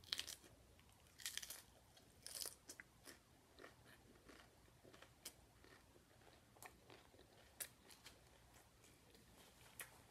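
Crunching bites and chewing of crisp corn taco shell pieces, heard close up. The sharpest crunches come at the very start and at about one and a half and two and a half seconds in, then fade into softer, scattered chewing crackles.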